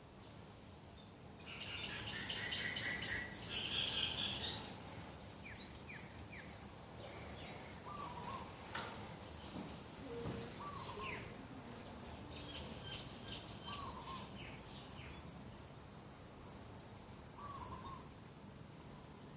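Several birds calling: a loud burst of high chattering calls in the first few seconds and a shorter one midway, with a short, lower call repeating about every three seconds.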